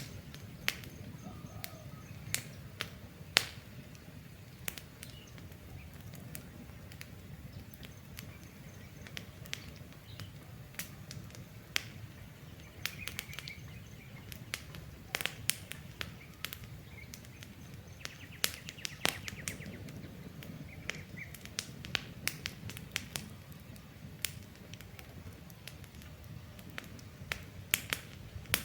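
Campfire burning with irregular sharp crackles and pops over a low, steady rumble of flames. A few faint bird chirps come through in the middle.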